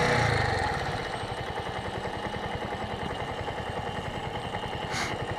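Suzuki TU250X single-cylinder motorcycle engine dropping in revs in the first second, then idling with an even run of firing pulses.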